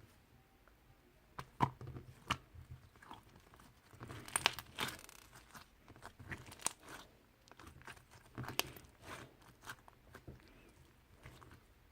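Irregular crinkling and rustling with sharp clicks and crunches, coming in clusters, busiest a few seconds in and again near two-thirds of the way through.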